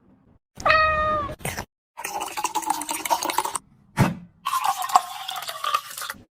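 A cat meows once, a flat call lasting under a second, followed by cut-together kitchen handling noise and a single sharp knock about four seconds in.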